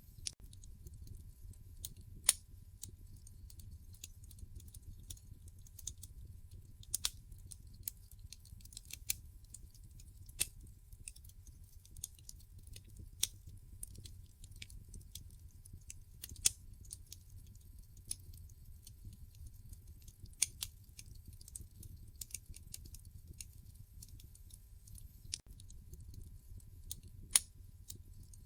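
Wood fire crackling in a fireplace: irregular sharp snaps and pops, the loudest a few seconds apart, over a steady low rumble of the burning logs.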